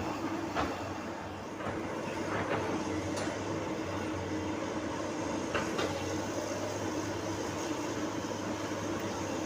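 Komatsu PC200 excavator's diesel engine running steadily, with a few short knocks and clanks from the working machine.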